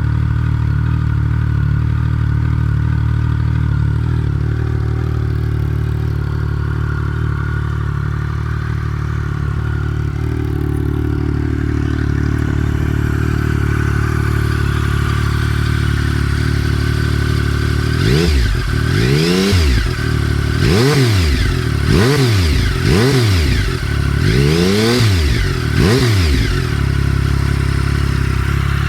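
2007 Triumph Tiger 1050's three-cylinder engine idling through a Storm GP low aftermarket exhaust, with a K&N air filter and the airbox dog bone removed. About eighteen seconds in, it is revved in a series of six or seven quick throttle blips, each rising and falling in pitch, then settles back to idle.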